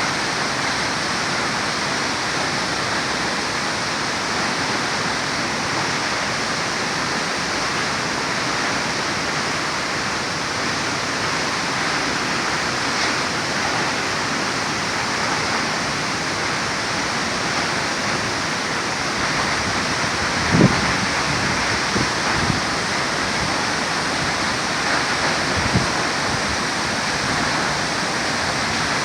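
Multnomah Falls' upper falls, water rushing steadily. A few brief low thumps come in the second half.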